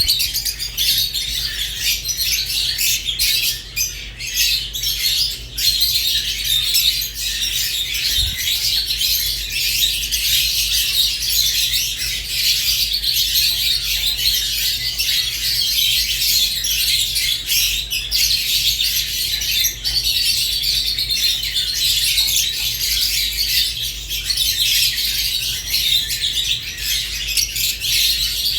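Fischer's and rosy-faced lovebirds chirping and squawking in a continuous, dense, shrill chatter, with a steady low hum underneath.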